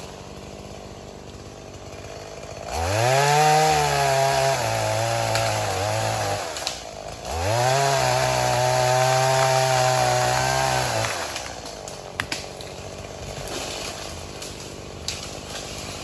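Brand-new Stihl chainsaw felling a large tree, opened up to full throttle twice for about three and a half seconds each and dropping back in between. A few sharp clicks follow near the end.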